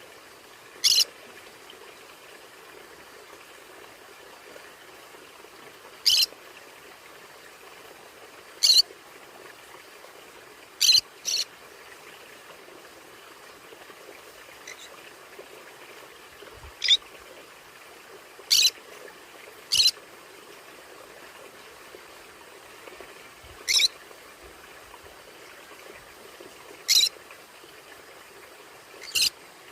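Conure parrot giving short, sharp high-pitched calls, about eleven single chirps spaced irregularly a few seconds apart, with two in quick succession near the middle, over a steady background hiss.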